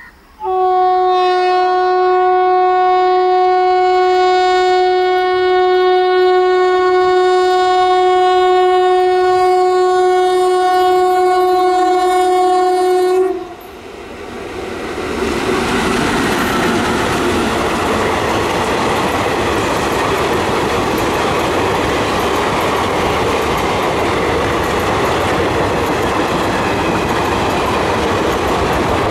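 An Indian Railways locomotive horn sounds one long, steady note for about thirteen seconds and cuts off. A train then runs past at speed with a loud rush of wheel and rail noise.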